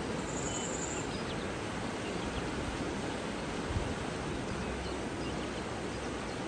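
Running water rushing steadily, with a bird giving one brief, thin, high-pitched call near the start and a few faint chirps. A soft low thump comes just past the middle.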